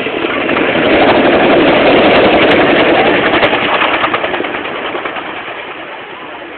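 Twin-engine, tandem-rotor Chinook helicopter flying past, its rotor beat and turbine noise swelling to a peak a second or two in, then fading away.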